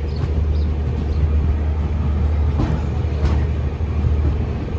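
Steady low rumble of a passenger train standing at a station, with a couple of faint clicks about halfway through.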